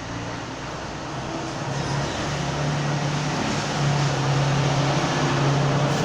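A machine running with a steady low hum over a noisy rush, growing louder over the first two or three seconds and then holding steady.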